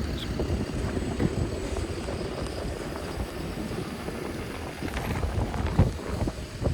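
Wind buffeting the microphone in a snowstorm, a steady low rumble with a few short thumps about five to six seconds in.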